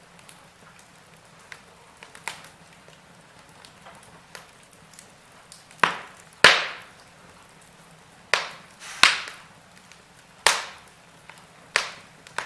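Wood fire in a fireplace crackling over a faint steady hiss. A few small crackles come in the first half, then about six loud sharp pops in the second half, each dying away within a fraction of a second.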